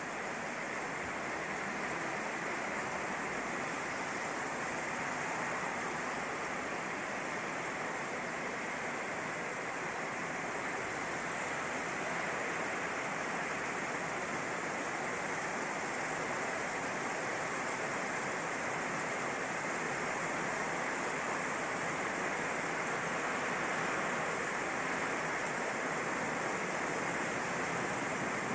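Heavy rain pouring down steadily: a dense, even hiss that holds at the same level throughout.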